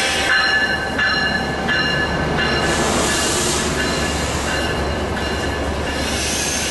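VRE commuter train pulling into the station, its wheels and brakes squealing in several high tones that break off and start again as it slows. There is a short hiss about three seconds in, over a steady low rumble of the train.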